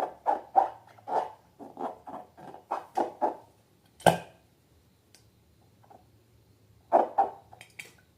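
Slime being squeezed and worked by hand: a run of short squelching squeaks, about three a second, a sharp snap about four seconds in, then a few more squelches near the end.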